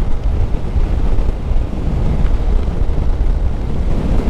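Heavy wind buffeting on the microphone over the steady rumble of a motorcycle riding at speed, with no distinct events.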